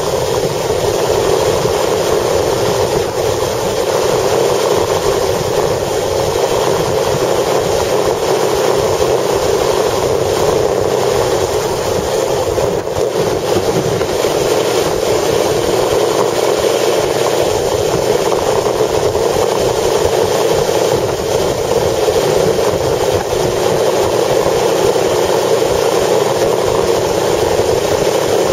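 A vehicle on the move, with a steady loud rush of engine, tyre and wind noise in strong wind.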